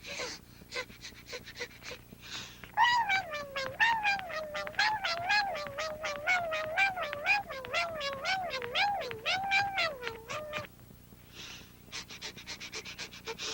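Rapid light footsteps, about six a second, for a tiny jogging figure. From about three seconds in to near eleven seconds they run under a high, squeaky pitched sound that wavers up and down about twice a second.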